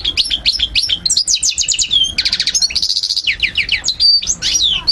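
European goldfinch singing: a fast, continuous twittering song of quick high chirps and trills, with a buzzy rattle about two seconds in.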